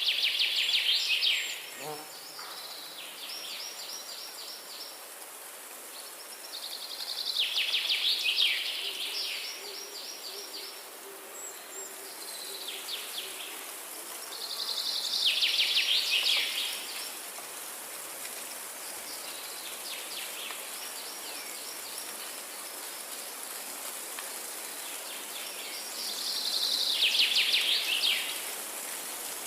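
Forest ambience: a rapid high trill of quick pulses, sliding lower at its end, comes back about every eight seconds, with fainter trills between, over a steady high hiss.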